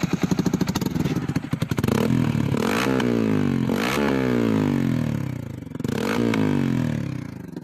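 Bajaj Pulsar N250 motorcycle's single-cylinder engine being revved, starting with a fast pulsing beat. The throttle is blipped about three times, each time rising quickly in pitch and then dropping back slowly.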